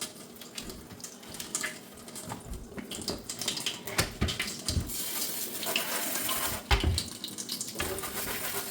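Kitchen tap running into a sink as a greasy refrigerator part is rinsed, with a few light knocks from the part being handled. The water gets louder from about halfway through until near the end.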